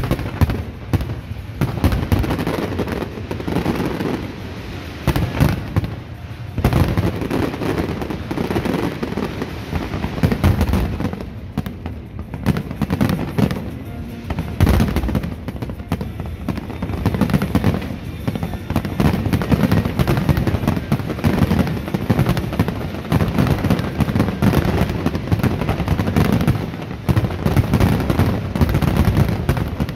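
Aerial fireworks display: a dense, continuous barrage of shell bursts, one bang following another with no pause.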